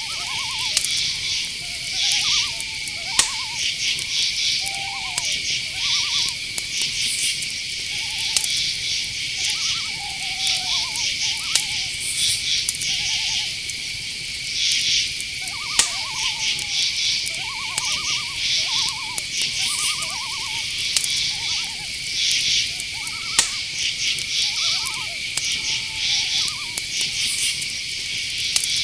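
Night chorus of crickets and other insects: a steady high drone under rapid pulsed chirping. Short trilled calls of night animals, typical of small owls, come every second or two throughout.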